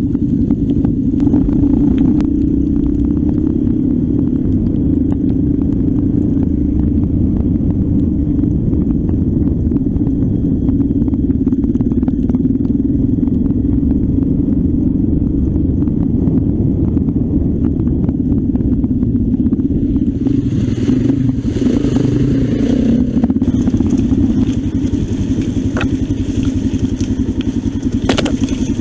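Trail motorcycle engine running at a steady pitch, with scattered knocks and rattles. A stretch of hiss joins it about two-thirds of the way through.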